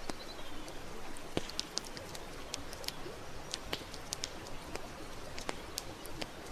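Campfire crackling, with frequent irregular sharp pops and snaps over a steady hiss.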